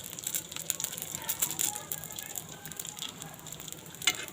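Chicken buns deep-frying in oil, a steady fine crackle and sizzle, with one sharp click near the end.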